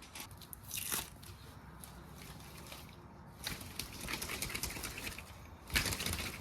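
Rustling, crinkling handling noise in short bursts, with a sharp knock near the end.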